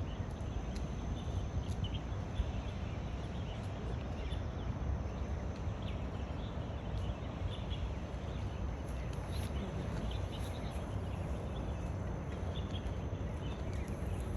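Steady wind noise rumbling on the microphone outdoors, with faint short high sounds scattered through it.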